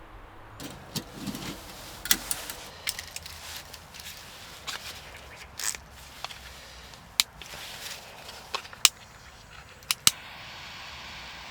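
A run of sharp, irregular clicks and knocks, about a dozen spread over ten seconds, with a steady faint hiss taking over near the end.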